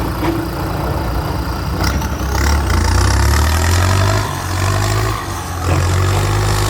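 Kubota M6240SUH tractor's four-cylinder turbo diesel running through its modified aftermarket exhaust. The engine gets louder about two seconds in as the revs come up, then eases off briefly twice before picking up again.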